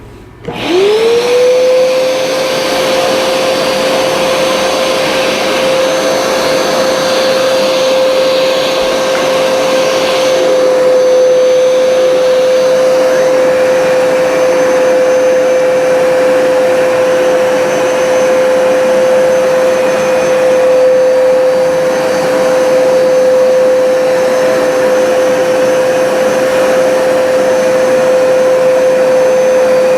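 Hoover Smartwash automatic carpet cleaner's suction motor switching on about half a second in and quickly spinning up. It then runs at a steady whine with a rushing airflow.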